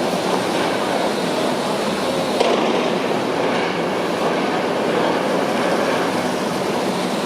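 Heavy construction machinery running with a steady mechanical rumble and clatter, with one sharper knock about two and a half seconds in.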